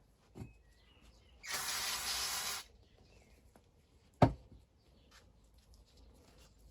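A hissing spray of about a second, cleaning out the dirt bike's carburettor parts, with a single sharp knock a couple of seconds later.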